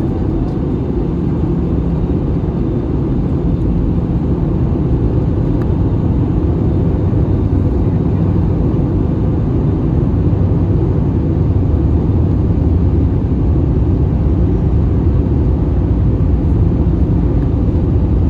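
Steady cabin roar of an Airbus A320 in flight, engine and airflow noise heavy in the low end, growing slowly louder.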